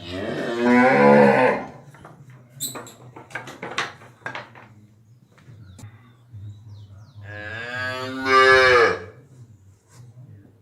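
Cow bellowing twice: a loud call right at the start, then a longer one that swells and drops in pitch as it ends. A few sharp clicks sound between the two calls.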